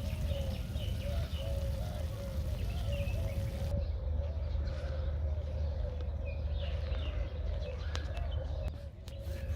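Birds chirping and calling over a steady low hum, with a few clicks near the end.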